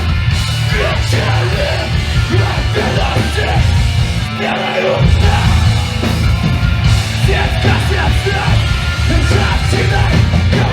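Live hardcore-punk band playing loud: distorted guitars, bass and drums with shouted vocals. The bass drops out for a moment about four seconds in, then the full band comes back.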